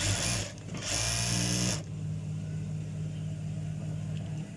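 Single-needle sewing machine with its motor humming steadily and two short bursts of stitching in the first two seconds. It is being run as a test after its hook was adjusted to stop the thread breaking.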